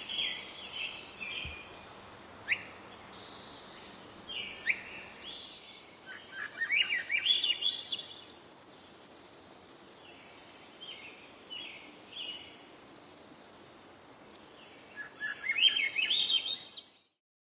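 Wild songbirds singing in forest: scattered chirps and short phrases, with a loud run of quickly rising notes twice, about six seconds in and near the end. The sound cuts off suddenly just before the end.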